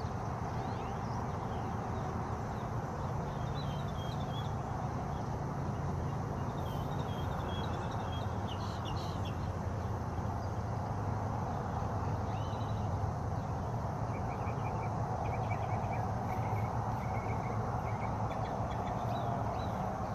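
Small birds chirping in short high phrases, with a run of quick repeated trill notes in the second half, over a steady rushing background noise.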